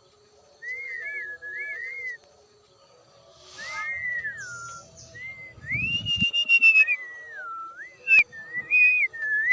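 Clear whistled notes sliding up and down in short phrases, with a longer, louder held note partway through. A dull thump comes about six seconds in and a sharp click near the end.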